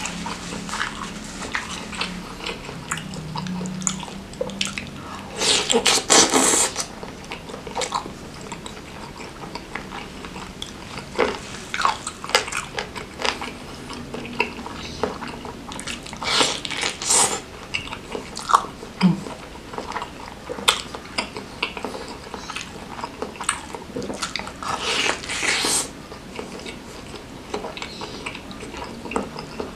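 Close-miked chewing and biting of a beef meatball stuffed with beef trimmings in chilli sauce: a run of small wet clicks and mouth noises, with louder bursts of chewing three times.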